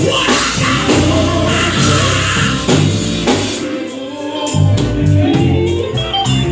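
Live gospel band playing, with drums, a bass line and electric guitar under singing; the bass drops out for about a second midway.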